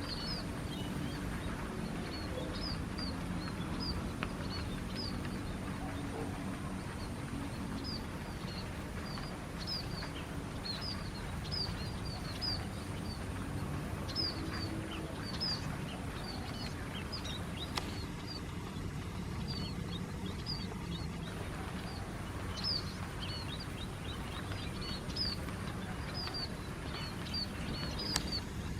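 A flock of small birds keeps up many short, high chirps in quick scattered succession, over a steady low rumble.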